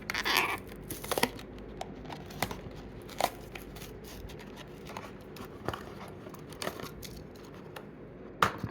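Toy-train packaging being opened by hand: irregular crinkling, tearing and sharp clicks, the loudest just after the start and again near the end.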